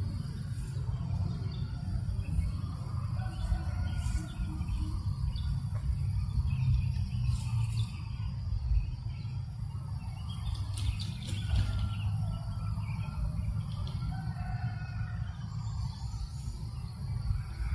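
Steady low wind noise on the microphone, with faint bird chirps and calls scattered over it and a small cluster of chirps about eleven seconds in.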